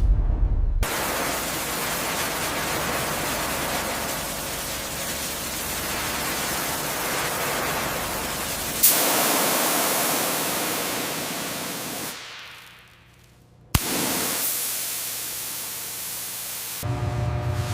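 Steady loud hissing rush in three stretches, with a sharp click where it brightens about nine seconds in and another as it returns after a brief fade near the three-quarter mark.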